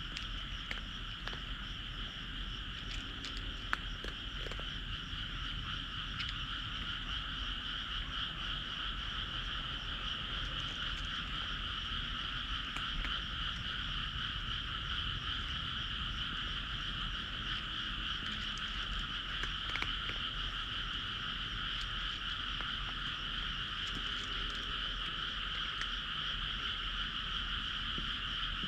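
A chorus of many frogs calling at once, a steady unbroken din, with one faint click about four seconds in.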